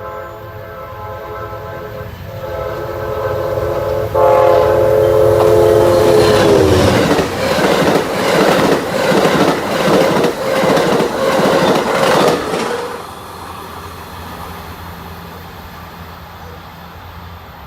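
Amtrak locomotive horn sounding as the train approaches, getting louder and then dropping in pitch as the locomotive passes. The wheels of the passing cars then clack rhythmically over the rail joints for about five seconds before the train's rumble fades.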